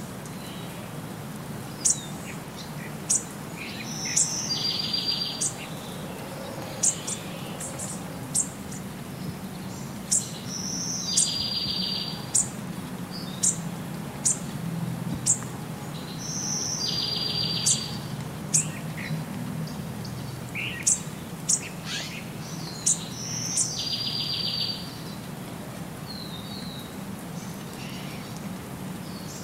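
Birdsong: one bird repeats a phrase about every six seconds, a high note followed by a buzzy trill about a second long, while other sharp, high chirps sound between the phrases. A steady low hum runs underneath.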